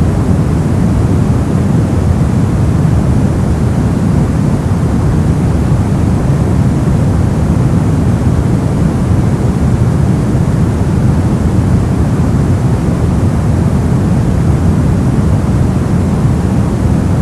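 Brown noise: a steady, deep rumbling hiss with most of its energy in the bass, unchanging throughout.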